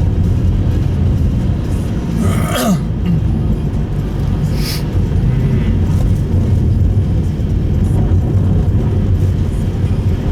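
Steady in-cabin drone of a Subaru Impreza Sport GP7 driving, its engine and tyre noise filling the low end. About two and a half seconds in, a short throat-clearing-like sound with a falling pitch, and near four and a half seconds a brief hiss.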